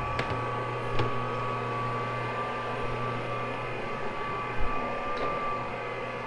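Carpet-cleaning machine running steadily on a wool rug with a constant motor hum and whine, a few sharp clicks near the start and a low knock about four and a half seconds in.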